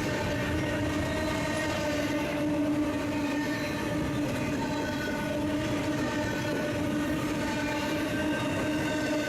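BNSF freight train running by, a continuous rumble under steady held tones that do not change in pitch.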